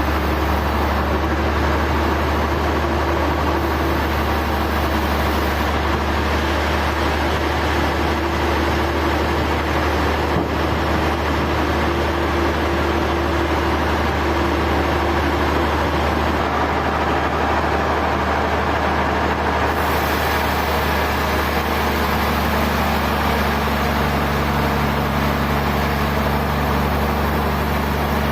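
Sawmill machinery running steadily: a continuous low engine hum under a dense, even mechanical noise, with no breaks.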